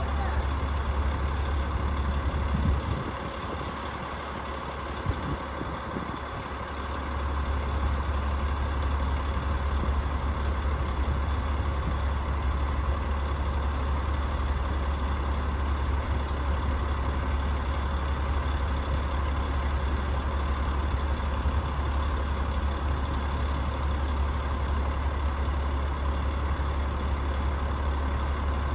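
Rooftop HVAC unit running with a steady low hum over a noisy rush. The low hum drops away for about four seconds a few seconds in, then comes back.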